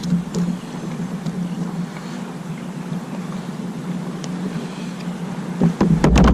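Motorboat engine droning steadily on the river, with a burst of loud knocks and splashes near the end.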